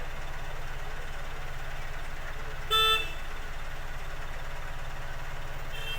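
A vehicle horn toots once, briefly and loudly, about three seconds in, over a steady low drone; a fainter toot starts near the end.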